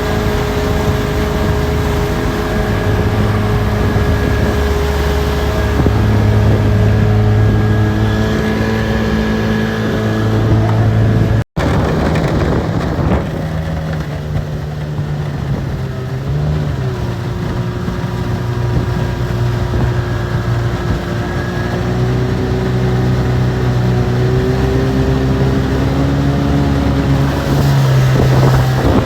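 Outboard motor on a jon boat running steadily under way, with a brief break about eleven seconds in and some wind on the microphone.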